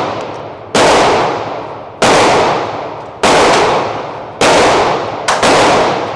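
Six 9mm pistol shots, from a Smith & Wesson M&P 2.0 fitted with a forced-reset trigger. They come about one every second and a quarter, and the last two are close together. Each shot echoes and dies away over about a second in the enclosed range.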